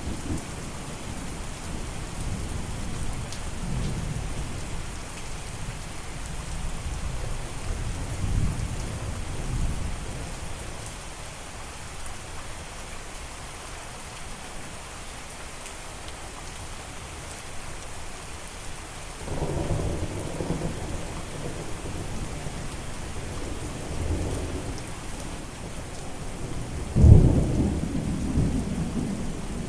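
Steady rain with rolling thunder. Low rumbles fill the first third, ease into a lull, then return about two-thirds through, with the loudest thunderclap near the end.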